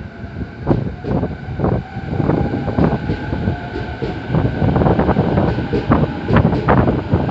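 Train running along the platform, its wheels knocking over rail joints about twice a second over a steady rumble, growing louder as it comes closer.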